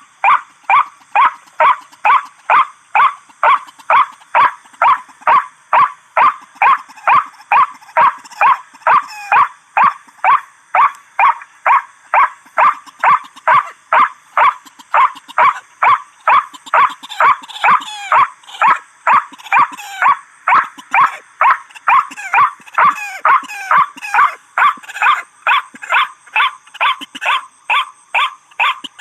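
White-breasted waterhen (ruak-ruak) calling its repeated 'kru-ak' note over and over at about two and a half calls a second, steady and unbroken.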